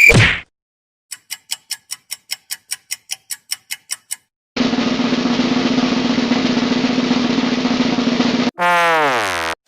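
A string of stock sound effects: about fifteen quick even ticks, roughly five a second, then a snare drum roll lasting about four seconds, then a short sound that falls in pitch near the end.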